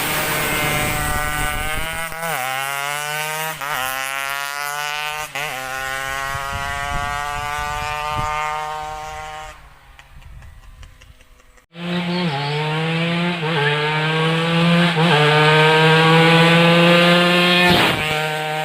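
Yamaha F1ZR two-stroke motorcycle engine, bored out to 116 cc, accelerating hard up through the gears: the pitch climbs in each gear and drops sharply at each shift, about three shifts. The sound cuts off about halfway through, and a second run starts suddenly a couple of seconds later with the same climbing shifts.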